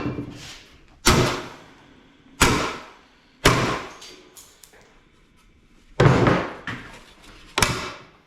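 A series of six heavy metal bangs at uneven intervals, each ringing briefly before dying away, from scrap parts being struck or knocked while an air-conditioning unit is broken down for scrap.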